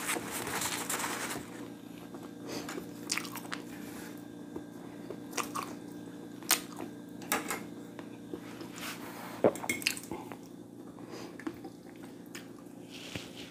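Close-up eating: a crunchy bite in the first second or so, then chewing with scattered sharp mouth clicks, over a steady low hum.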